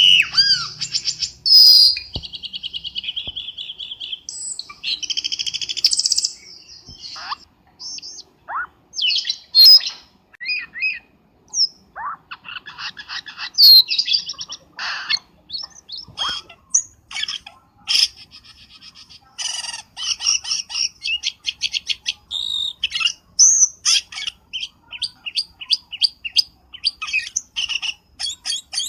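Cucak keling bird calling: a busy string of varied chirps, squeaky whistles and fast rattling trills with short pauses between phrases, as used for a bird-luring (pikat) call.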